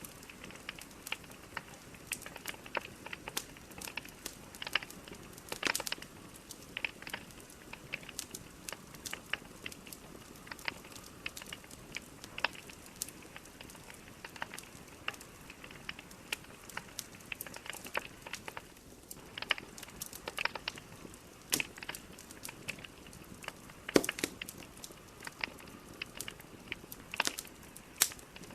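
Wood fire of burning logs crackling, with irregular sharp pops and snaps over a soft steady hiss; a few louder pops about six seconds in and near the end.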